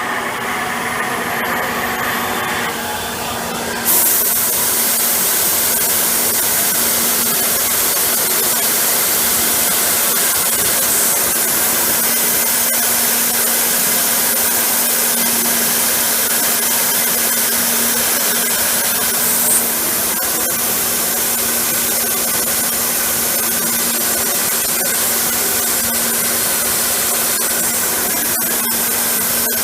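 PORTATEC Basic portal milling machine running with a steady hum under a loud hiss. About four seconds in the sound turns suddenly louder and brighter, and it holds steady from there.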